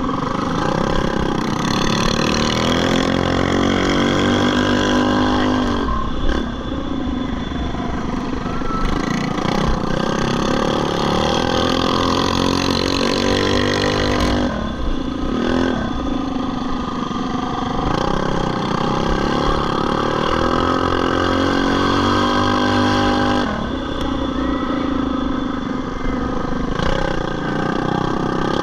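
Small minibike engines racing, revving up and easing off over and over, with their pitch climbing and dropping and several engines overlapping.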